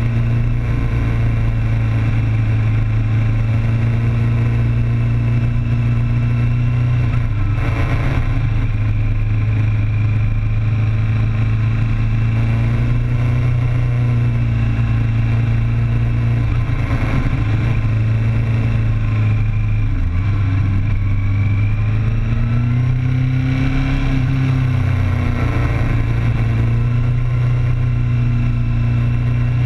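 Inline-four sportbike engine heard from a camera mounted on the bike, running at fairly steady revs. The note shifts up and down a little a few times, most clearly about two-thirds of the way through.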